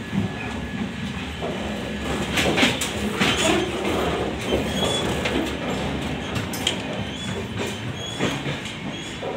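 Passenger train running on the track: a steady rumble and rattle of the wheels and coach, with occasional knocks and brief squeaks.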